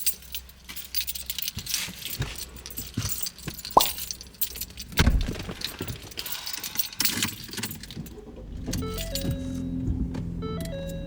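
Keys jangling with handling clatter and knocks for several seconds, then background music with steady held notes comes in about eight seconds in.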